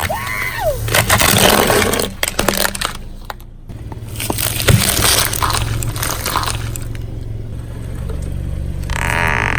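A car tyre rolling over and crushing objects: a short squeal, then bursts of crunching and scraping, over the car's steady low engine hum.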